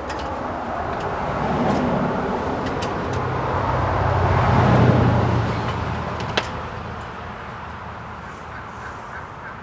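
A road vehicle driving past, its noise and low engine hum swelling to a peak about halfway through and then fading away.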